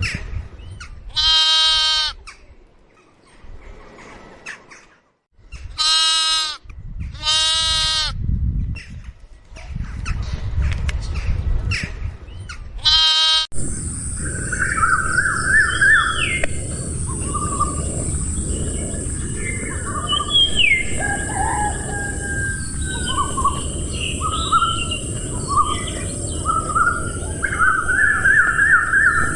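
A goat bleating four times: two single calls and a close pair. About halfway through the sound cuts to birds chirping over a steady high insect buzz.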